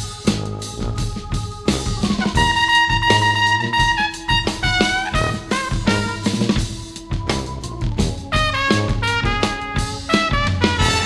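Jazz brass ensemble of trumpets, baritone saxophone and tuba with keyboards and drum kit playing: quick stepping melodic runs over held notes, with busy drumming and rimshots.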